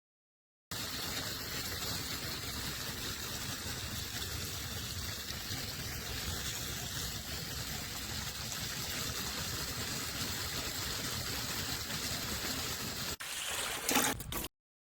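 Water running steadily as a water heater is flushed out through its drain. It breaks off briefly near the end, comes back louder for a moment, then stops abruptly.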